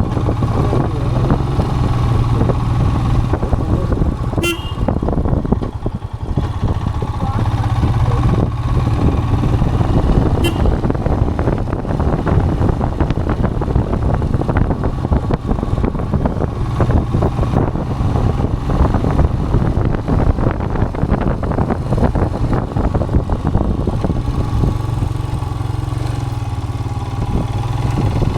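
Royal Enfield Himalayan's single-cylinder engine running steadily under way, with road and wind noise. A vehicle horn toots briefly twice, about four seconds in and again about six seconds later.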